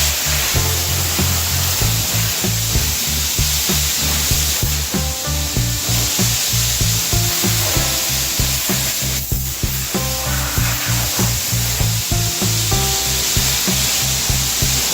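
High-pressure car-wash spray wand hissing steadily as water jets onto a car, over background music with a pulsing bass line.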